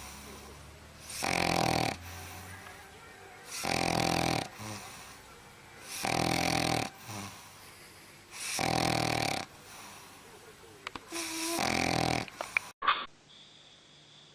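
A sleeping dog snoring loudly: five snores, each under a second long and about two and a half seconds apart, with quieter breathing between them. The snoring cuts off suddenly near the end, followed by a brief squeak.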